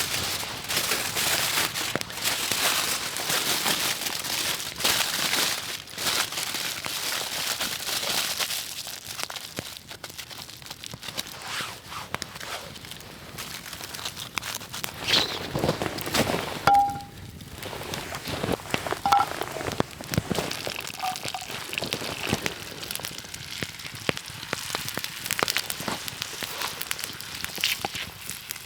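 Campfire crackling and popping steadily, busier in the first several seconds, with a few brief ringing clinks about two-thirds of the way through.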